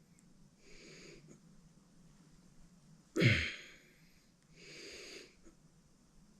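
A man breathing hard with effort: three heavy breaths about two seconds apart. The middle one is the loudest, a short grunt that drops in pitch.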